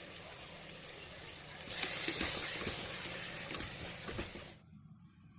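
Chopped tomatoes and mint leaves sizzling as they fry in hot oil, a steady hiss that grows louder about two seconds in and cuts off suddenly near the end.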